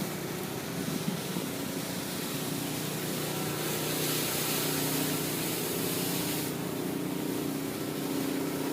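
City street traffic in the snow: a steady engine hum, with a louder hiss for about three seconds in the middle.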